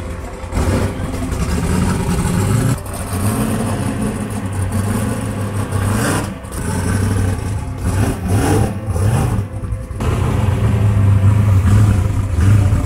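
A car's engine running loudly and being revved, dropping back briefly about three, six and ten seconds in.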